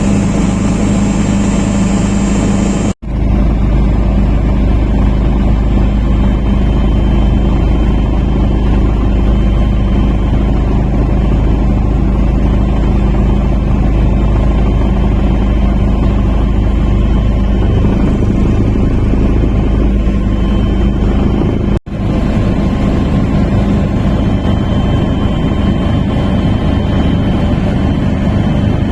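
Steady engine noise with a strong deep rumble, broken off for an instant twice, about three seconds in and again near twenty-two seconds.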